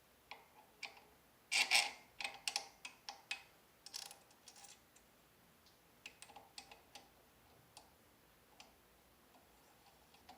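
Irregular clicks and light knocks of parts being handled during work on a drill stand, with a louder cluster of knocks about one and a half seconds in and scattered smaller clicks after.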